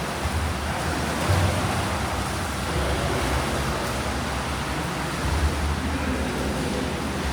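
Steady swimming-pool noise: water churning and splashing from swimmers over a low rumble.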